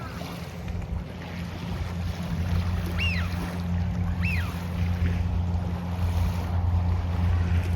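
Lakeside outdoor ambience: a steady low rumble, with two short downward-arching chirps about three and four seconds in.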